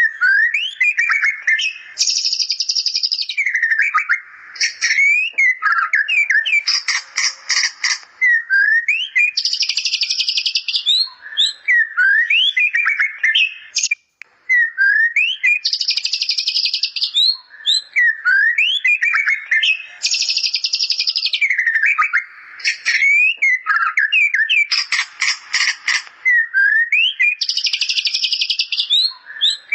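White-rumped shama (murai batu) singing a song filled with imitated bar-winged prinia (ciblek) phrases. Short upward-sweeping whistles alternate with bursts of dense, buzzy, rapid chatter and a few fast stuttering trills.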